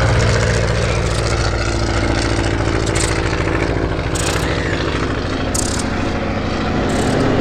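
Propeller aircraft's piston engine running steadily, with a low, even pulsing drone.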